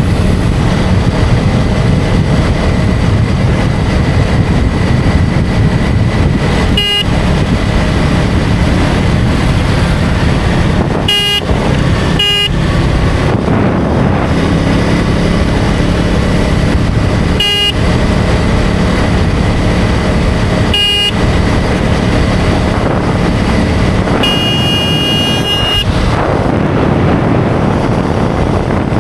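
KTM Duke 250 single-cylinder engine running steadily at road speed, with wind noise. Horns toot five times in short blips, then one longer horn blast of about a second and a half near the end.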